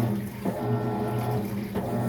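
Maytag top-load washing machine running its tub-clean cycle: a steady low hum over water noise, dipping briefly twice.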